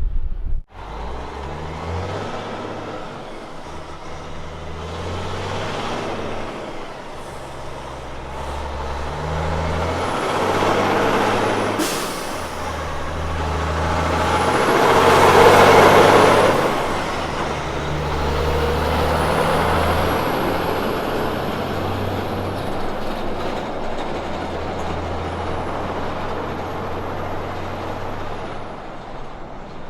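A road train prime mover's diesel engine pulling through a run of gear changes, its note climbing and dropping with each shift. It grows loudest about halfway through, with a rush of noise as it passes, then fades.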